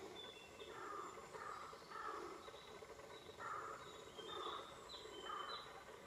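Faint outdoor background with birds calling: short, high whistled notes, some stepping down in pitch, with rougher, lower calls coming every second or so.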